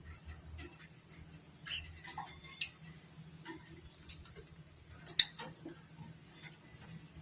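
Pet lovebirds: scattered sharp clicks and taps with a few brief high chirps, the loudest click about five seconds in.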